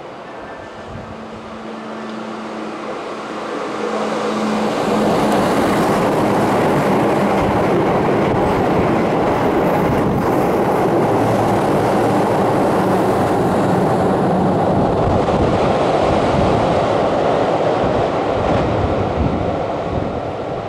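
Keihan Electric Railway train going past close by on the station tracks. Its running noise builds over the first few seconds, stays loud and steady, and eases off near the end.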